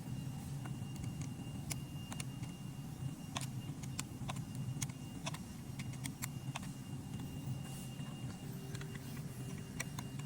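Scattered sharp small clicks and ticks at an irregular pace over a steady low hum, like small parts being handled.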